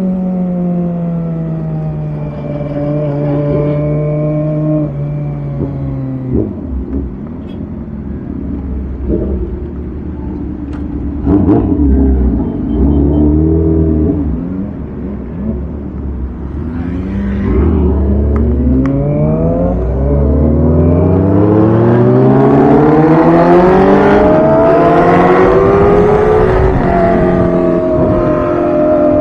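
Kawasaki ZX-25R's inline-four engine running through a Villain R11 aftermarket exhaust. Its pitch falls over the first several seconds and stays low and uneven for a while. It then climbs steadily over about ten seconds to its loudest near the end before easing off.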